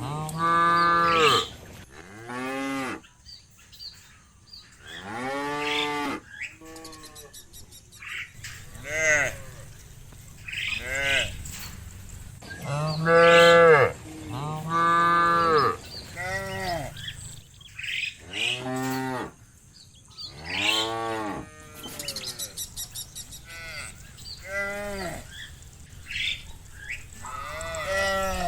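Cows mooing again and again, each moo about a second long and arching up and then down in pitch. Some calls are loud and close, others fainter.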